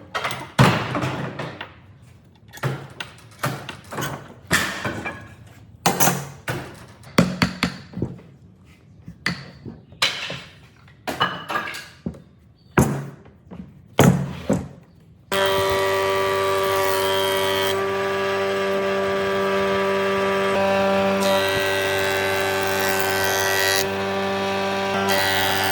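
Irregular knocks on wood, one or two a second, like blows from a hammer or mallet. About fifteen seconds in, a woodworking power tool's motor starts abruptly and runs steadily with a humming whine.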